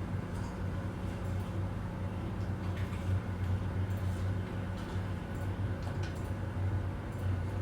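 Office ambience: a steady low hum with a few faint, scattered clicks and taps over it.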